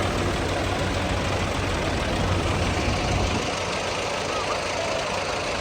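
Combine harvester engine running steadily under a dense, even machine noise; its deep hum drops away about three seconds in.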